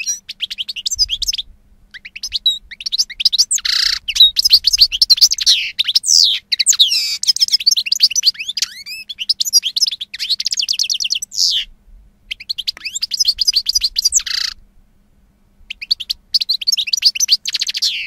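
Canary singing: long runs of fast trilled and warbled notes with short breaks, going quiet for about a second and a half near the end.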